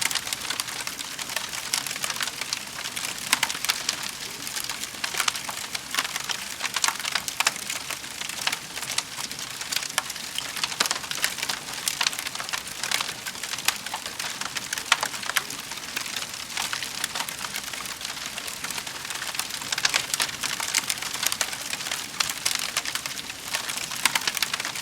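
Wood fire crackling in a fireplace: a steady hiss with dense, irregular snaps and pops, some louder pops standing out.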